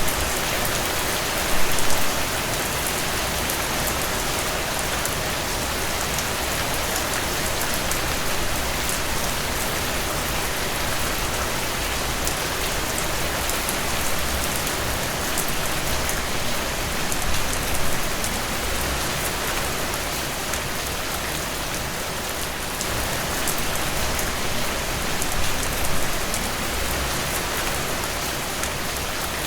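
Heavy rain falling steadily as an even hiss on a hard surface, with scattered sharp ticks. There are a few brief louder swells, about two seconds in and again near seventeen and twenty-five seconds.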